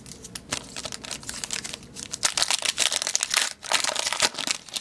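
Foil trading-card pack wrapper crinkling and tearing as it is opened by hand, a run of crackles that gets busier in the second half.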